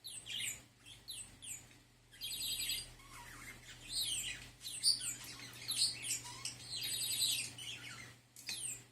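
Budgerigar chattering: a run of quick, high, downward-sliding chirps, with two short stretches of rapid buzzy rasping, about two seconds in and again near the end.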